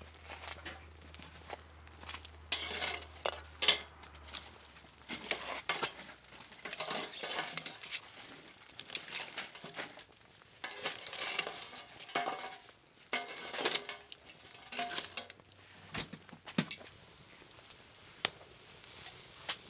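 Metal utensils clinking and scraping against cookware in short irregular bursts, with sharp clinks in between.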